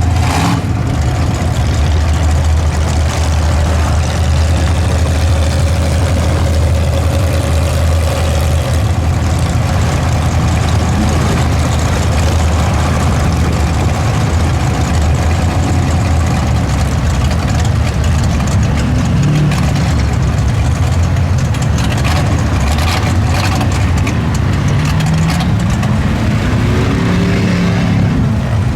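Mud truck engine running loud and steady, its pitch rising in short revs about two-thirds of the way through and again near the end.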